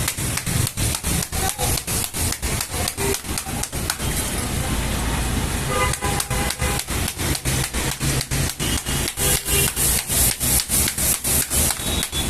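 Bajaj Pulsar AS single-cylinder engine running with a loud, even mechanical knocking, about four knocks a second over a low hum: the bad engine noise of a worn engine in very bad condition that needs a full rebuild.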